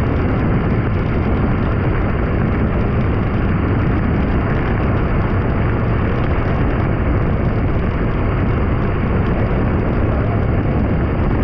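Steady road noise of a motorbike being ridden along: an even, heavy rumble that holds the same level throughout.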